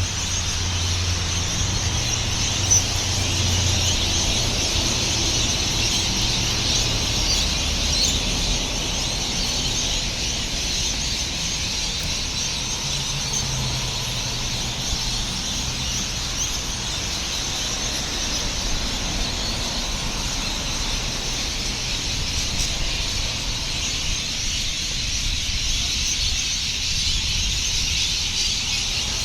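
Dense chorus of many birds calling at once, a continuous high-pitched chatter, with a steady low rumble of road traffic underneath.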